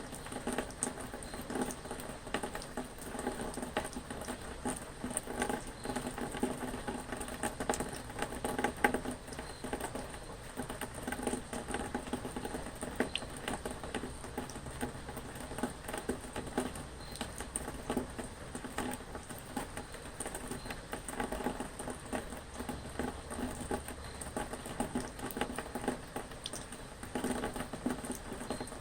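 Steady rain pattering: dense, irregular drops that hold an even level throughout.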